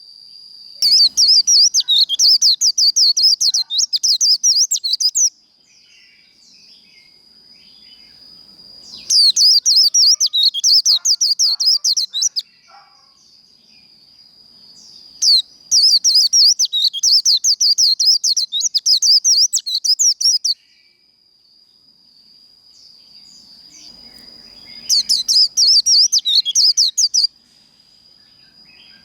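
White-eye (vành khuyên) singing its rapid, high twittering 'líu' song in four bursts of a few seconds each, with softer chirps in the gaps and a faint steady high tone underneath.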